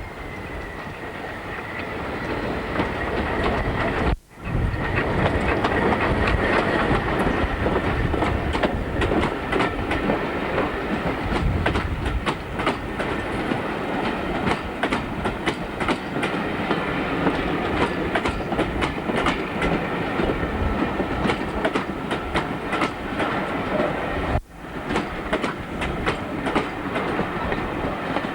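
Diesel train running on jointed track, its wheels clicking rhythmically over the rail joints, with a steady whine in the running noise. The sound drops out briefly twice, about four seconds in and near the end.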